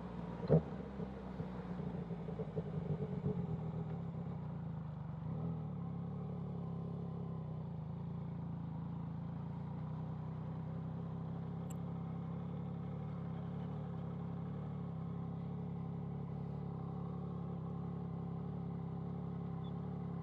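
Yamaha MT-09's three-cylinder engine idling steadily through a CS Racing aftermarket exhaust, a little uneven over the first few seconds, with a brief knock about half a second in.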